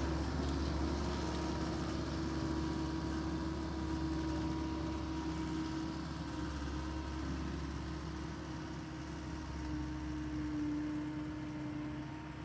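Tractor engine running steadily while driving a power rake through the ground, a continuous drone whose pitch wavers slightly.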